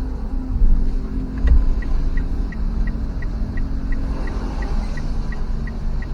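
Low rumble of a road vehicle under way, with a turn-signal indicator ticking evenly at about three ticks a second, starting about two seconds in.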